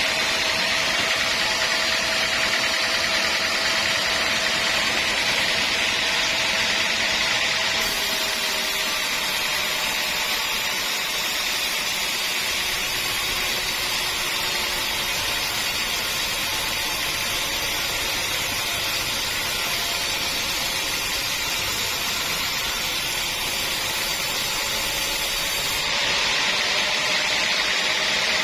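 Sawmill saw running steadily. Its sound shifts about eight seconds in and changes back near the end.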